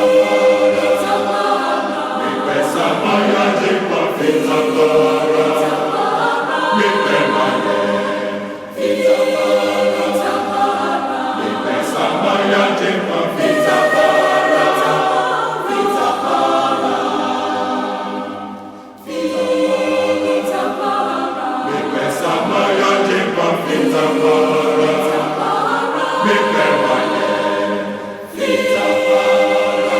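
A choir singing a cappella in several voice parts, with no instruments, in phrases that break off briefly about every nine to ten seconds.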